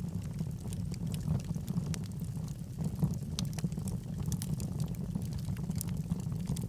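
Log fire burning in a fireplace: a steady low rumble of the flames with scattered sharp crackles and pops from the burning wood.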